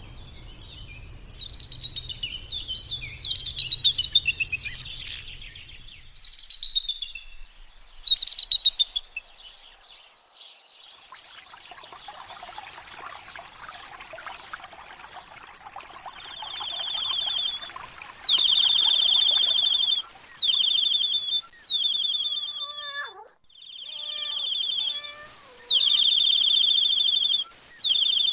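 Small birds chirping, then a long stretch of steady rushing noise, then repeated high trills, each a second or two long, with short breaks between them.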